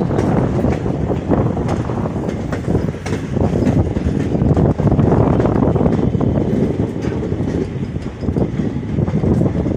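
Running noise of a moving passenger train with heavy wind buffeting on the microphone, heard with the microphone held out of a coach door.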